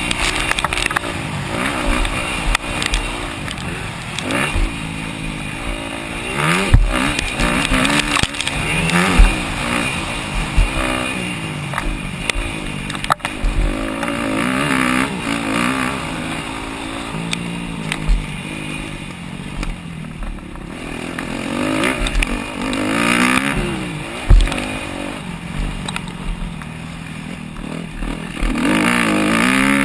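250cc four-stroke motocross bike engines revving hard, the pitch climbing and falling again and again through gear changes, with wind rush and a few sharp thumps.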